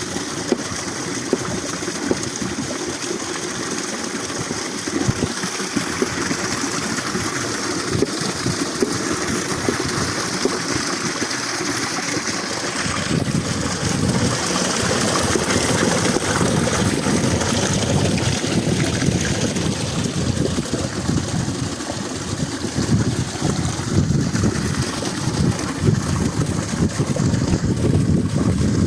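Steady rush of flowing mountain water, with a low rumble that grows stronger about halfway through.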